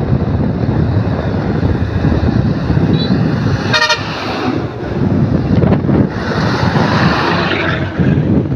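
Heavy truck engine and road rumble, with one short horn toot about four seconds in.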